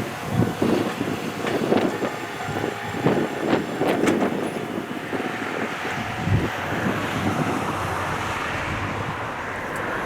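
Ohmi Railway electric train running on the line, with a few sharp clicks near the middle, heard through wind buffeting the microphone.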